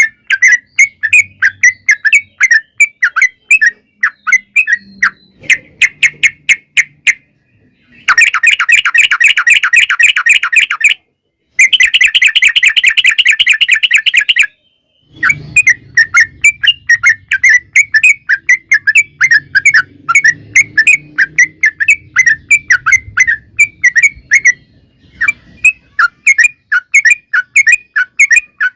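Yellow-vented bulbul (trucukan) singing in a fast, lively burst of repeated chirpy notes. Two long, rapid rattling trills, the 'ropel', come about a third of the way in, one straight after the other.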